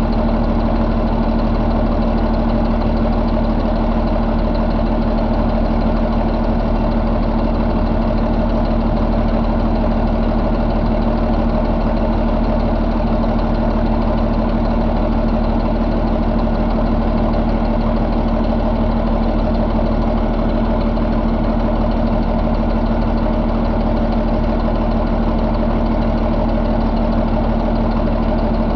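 2014 Cummins ISX15 inline-six diesel engine idling steadily at an even speed.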